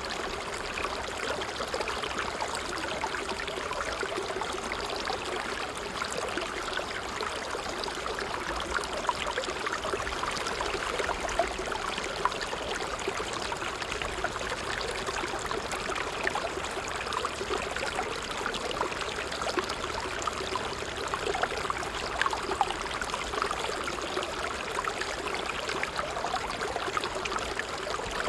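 Water trickling steadily, a small stream splashing and bubbling over stones in many tiny, irregular droplet splashes.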